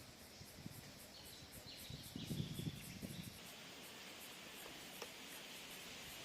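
Outdoor bush ambience: an insect's high, steady pulsing, about four beats a second, with a few short falling bird chirps in the first half and a brief low rumble.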